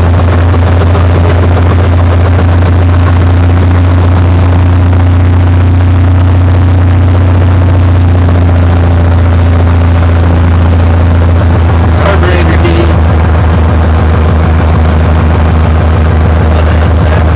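Cessna 182's six-cylinder engine and propeller running at a steady, loud drone, heard from inside the cabin.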